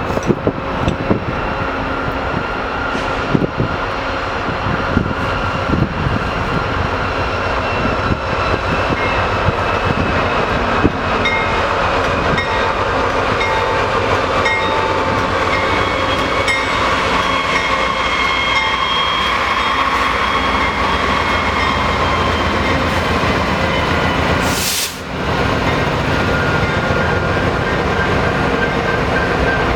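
A train rolling past on the rails: a steady loud rumble with thin high ringing tones from the wheels and a few clicks early on. The sound drops out briefly about 25 seconds in, then carries on.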